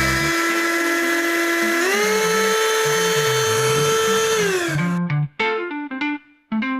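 Silvercrest SHSA 20-Li B1 cordless handheld vacuum's motor running with a steady whine. About two seconds in the whine steps up to a higher speed, then it winds down and stops after about four and a half seconds as the vacuum is switched off.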